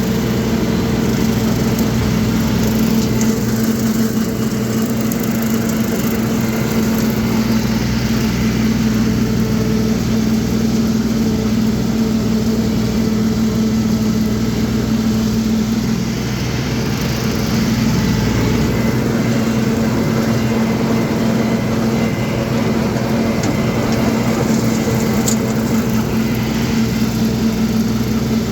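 Tractor engine running steadily at working speed while pulling a brush hog (rotary cutter) through a field, a constant drone with a strong low hum.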